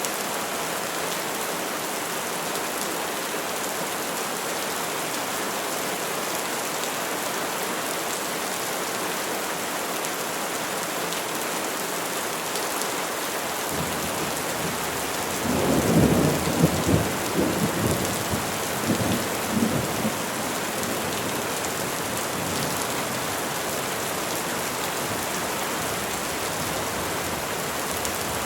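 Steady rain falling on trees, with a roll of thunder about halfway through: a low rumble that swells, peaks in several uneven cracks over about four seconds, then fades back into the rain.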